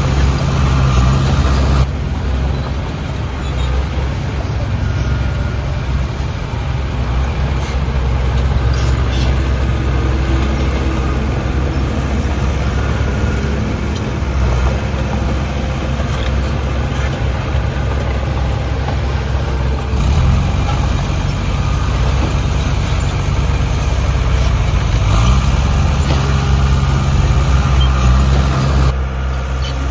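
Heavy diesel engine of earthmoving machinery running steadily under load, its pitch rising about 25 seconds in as it revs up.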